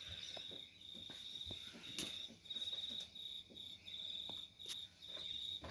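A cricket trilling high and steadily in stretches of about half a second to a second with short breaks, with a few faint clicks.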